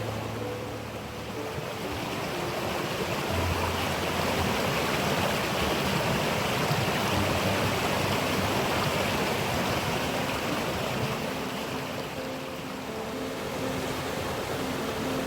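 Steady rush of flowing water, as from a stream running over rocks.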